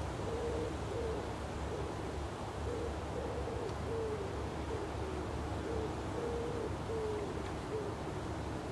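A bird's low, hooting coos, repeated in short groups of notes, over a steady low background rumble.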